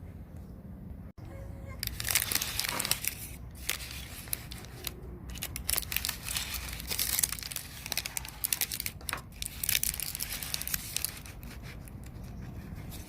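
Irregular crinkling and crackling noise made of many small clicks. It starts about two seconds in and thins out near the end.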